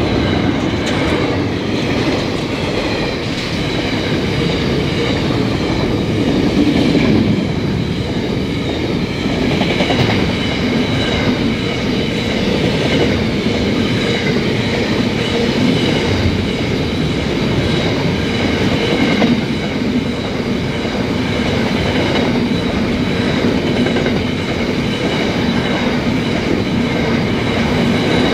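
Freight train wagons rolling past close by: steady wheel-on-rail rumble with faint rhythmic clickety-clack as the wheels cross rail joints. A thin, steady high ringing sits above the rumble.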